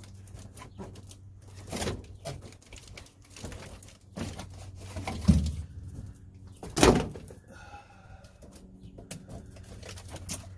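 Knocks, thumps and rustling of sheets of sound-deadening mat being handled and laid out on a truck cab floor, the loudest thumps near the middle.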